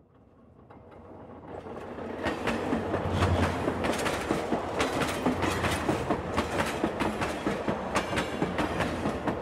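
Passing train's wheels clicking over rail joints in a rhythmic clickety-clack, over a steady rumble. It swells up from near silence over the first two seconds.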